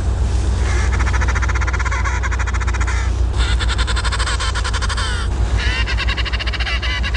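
Penguins calling in harsh, rapidly pulsed brays, three long bouts one after another, over a steady low rumble.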